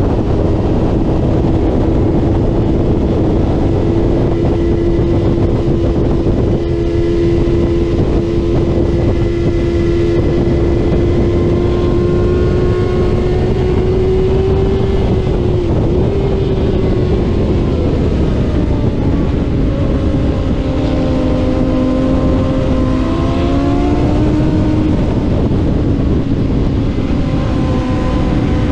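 Middleweight superbike engine at racing speed, heard onboard under a heavy rush of wind. The engine note climbs slowly for about fifteen seconds, dips briefly, then runs lower and changes pitch several times as the rider shifts and works through the corners.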